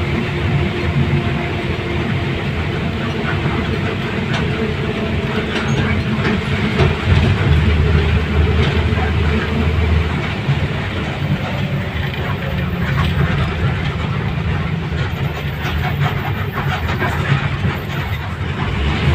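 Steady rumbling travel noise of a vehicle in motion, with a low hum and scattered light clicks throughout.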